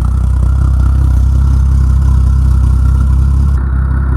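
Ford 300 straight-six carbureted gasoline engine of a Harlan aircraft tow tractor, running loud and steady.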